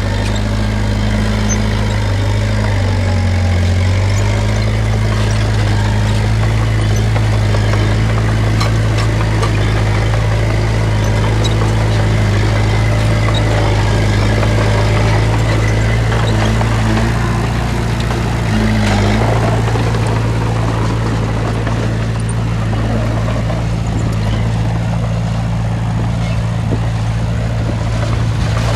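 Heavy diesel engine of earthmoving machinery running steadily, with its pitch dropping briefly about three seconds in and again near nineteen seconds.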